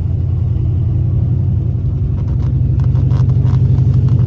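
Dodge SRT8 392 HEMI V8 running rough with a pulsing low rumble; from about two seconds in, irregular sharp ticks join it. The engine is misfiring and shaking, which the owner puts down to the lifters probably being done.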